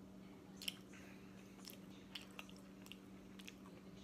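Faint chewing of a mouthful of crispy chicken sandwich: scattered soft wet mouth clicks over a low steady hum.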